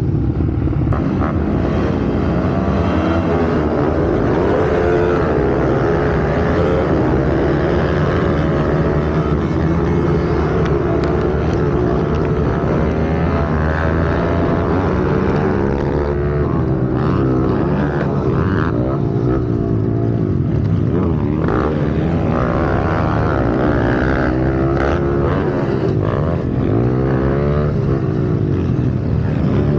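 Small single-cylinder pit bike engine running hard on a dirt track, its pitch rising and falling again and again as the throttle is opened and closed through the corners.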